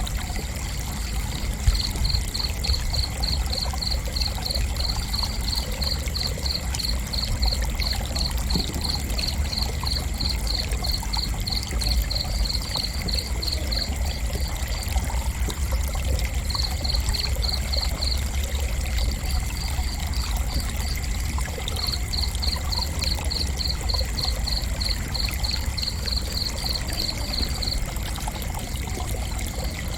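A cricket chirping in a steady run of short, evenly spaced high chirps, about three or four a second. The chirping breaks off for a few seconds around the middle, resumes in shorter runs and stops shortly before the end, over a constant faint high ringing and a low rumble.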